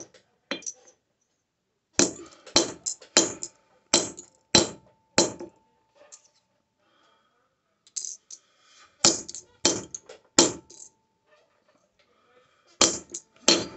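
Hammer blows on a sterling silver bar being hand-forged square on an anvil: sharp metallic strikes, about three a second, in runs of several blows with pauses between. A faint steady ring hangs on after the blows.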